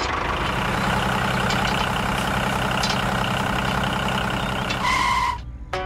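Tractor engine running steadily with a low, even hum. A short, high beep sounds near the end, and then the engine sound cuts off suddenly.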